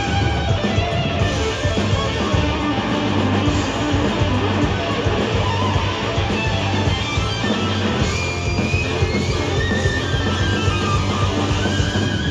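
Live rock band music: electric guitars strummed over bass and drums in a loud, steady passage.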